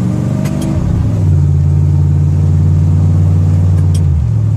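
Truck engine revving up about a second in and holding steady revs while the tires spin on wet pavement behind a 3000 rpm stall torque converter, then dropping back to a lower pitch near the end.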